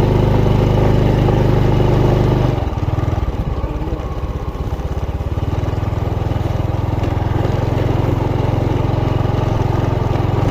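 Motorcycle engine running while riding, heard from on the bike. The engine note drops about two and a half seconds in, then gradually picks up again.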